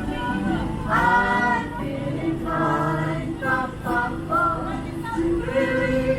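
Music with singing voices holding long sung notes.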